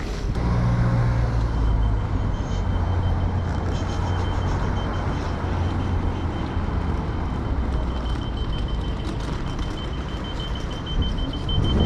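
Wind buffeting the microphone while riding an electric unicycle, a steady low rumbling rush. A faint steady high tone comes in about a second and a half in.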